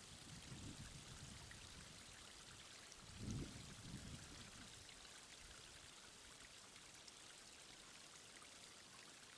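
Faint, steady rushing of a garden waterfall, with a brief low rumble about three seconds in.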